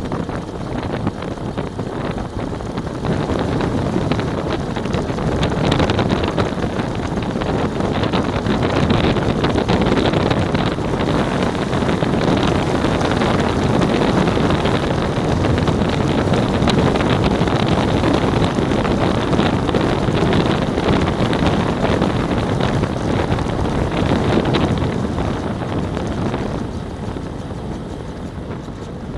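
Heavy wind buffeting the microphone at speed, a loud rushing roar that builds over the first few seconds and eases off near the end.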